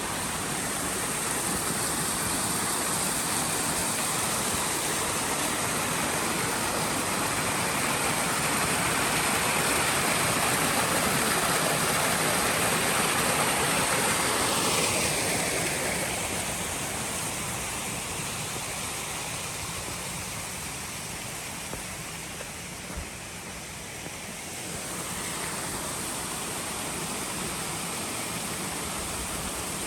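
Mountain stream rushing over rocks, a steady noise of water that swells, drops off about halfway through, and comes back up a few seconds before the end.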